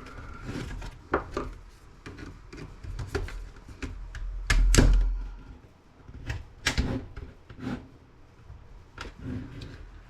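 Plastic laptop case and parts being handled and knocked about during disassembly: scattered clicks and knocks, with a louder low thump about four and a half seconds in.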